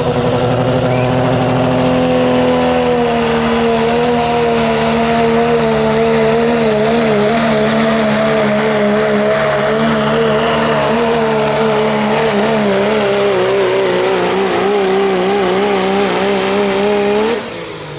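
Diesel four-wheel-drive pulling truck at full throttle hauling the sled, engine held at high revs with a wavering pitch that sags slowly under the load. Near the end the throttle comes off and the engine note, with a high whine, falls away sharply.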